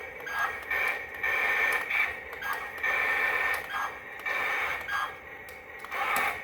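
Tinny electronic sound from a small speaker, coming and going in bursts of up to about a second over a steady faint tone.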